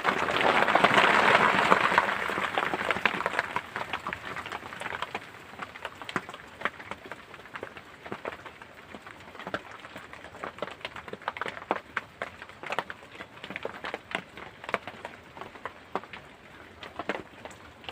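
Rain falling, with many irregular sharp taps of drops landing close by; a louder rush of rain noise swells in the first few seconds and then dies down.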